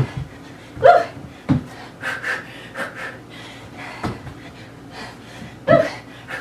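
A person breathing hard, with short forceful breaths every second or so and a few dull thuds. This is the exertion of punching combinations and sprawls.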